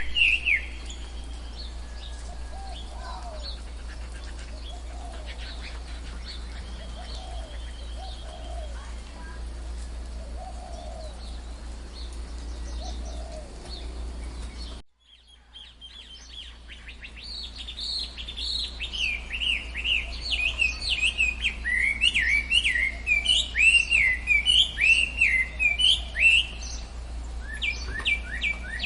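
Songbirds chirping and calling. Quieter, scattered calls over a steady low hum give way to a brief dropout about halfway through, then a dense chorus of rapid, high, falling chirps.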